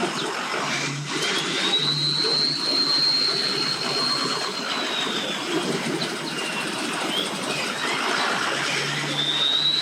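Vehicle engines running at a busy boat ramp, under a steady outdoor noise bed. A high thin whine rises about a second in, holds for a few seconds and falls away, then rises again near the end.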